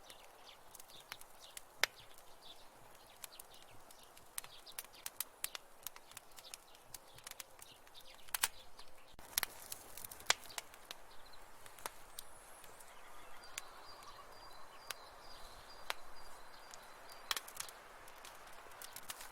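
Wood fire crackling in a fireplace: irregular sharp pops and snaps over a soft hiss, with a few louder cracks.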